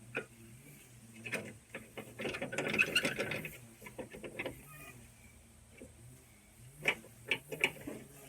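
Hand tools and metal parts clicking and rattling. Scattered sharp clicks, then a dense run of rapid clicking a little over two seconds in, lasting about a second, and a few sharp clicks near the end.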